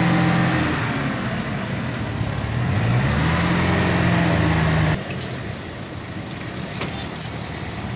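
Truck-style air horn on a motorcycle, fed from its compressed-air tank, sounding two deep blasts: the first ends just under a second in, the second swells up in pitch about three seconds in, holds, and cuts off suddenly at five seconds. Light clicks and rattles follow.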